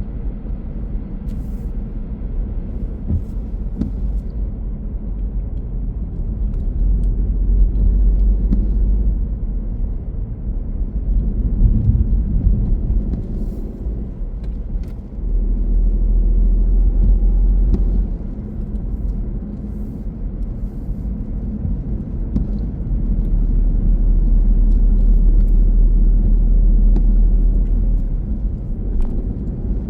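Car driving on the road: a steady low rumble of engine and tyre noise that swells louder twice, for a few seconds each time.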